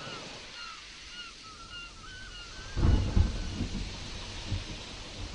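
Thunder breaks in a little before three seconds in, loudest for the first half-second, then rumbles on over a steady hiss of rain and surf. Before it comes a run of short, high chirping calls.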